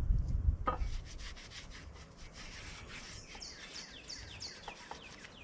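Scratchy rubbing strokes, like a part being scrubbed clean of oil residue, after a low rumble in the first second. From about halfway in, a bird sings a run of quick falling chirps, about three a second.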